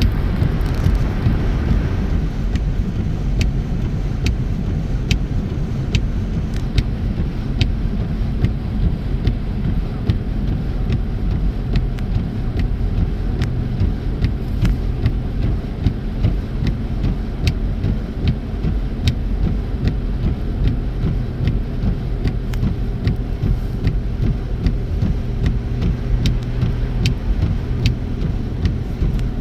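Car cabin road noise while driving on snowy roads: a steady low rumble of tyres and engine, with light sharp clicks about once a second.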